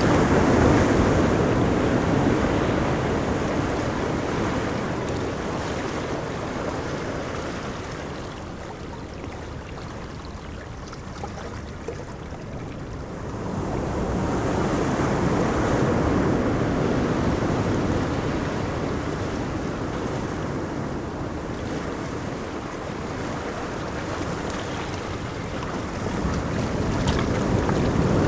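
Ocean waves breaking on a beach: a continuous rushing wash of surf that swells and ebbs, loud at the start, easing off for a few seconds, then surging again about halfway through and once more near the end.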